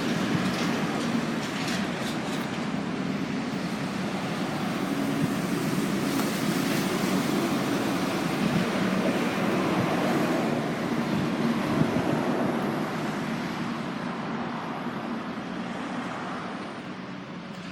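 Road traffic noise: a broad vehicle rumble that builds through the middle and then slowly fades.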